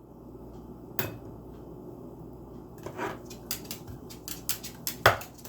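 Eclectus parrot knocking its beak against a food bowl: a single knock about a second in, then a quick run of taps and clatters from about three seconds, ending in one loud knock near the end.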